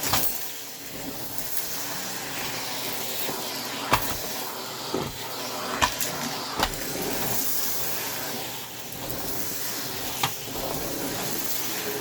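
Vacuum cleaner running steadily, a hiss of rushing air over a low motor hum, picking up crumbs from the floor. Sharp clicks and knocks break in about half a dozen times.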